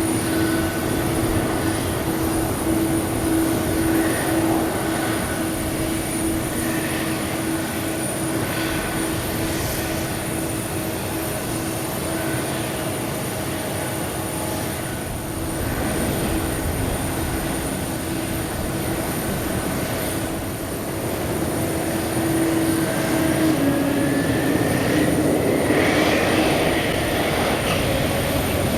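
Boeing 777-300's Pratt & Whitney PW4000-series turbofans running with a steady whine over a broad rush. Near the end a higher whine rises and the sound grows louder.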